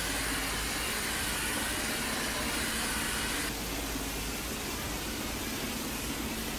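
Steady hiss of an air-fed foam sprayer coating a concrete mixer drum, over the low, steady running of the truck. The higher part of the hiss drops back about halfway through.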